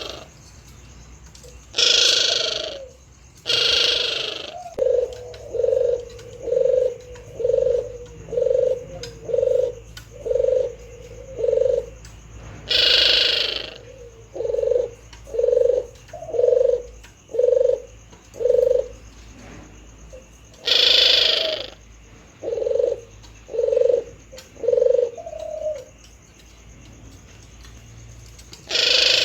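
Male puter dove cooing: runs of short, low coos at about one a second, broken four times by a loud, harsh, longer note.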